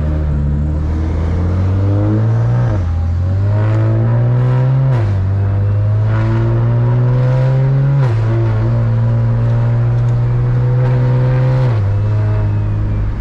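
Single-turbo BMW 335i's N54 inline-six heard from inside the cabin, accelerating gently. The engine note climbs steadily in each gear and drops sharply at four upshifts.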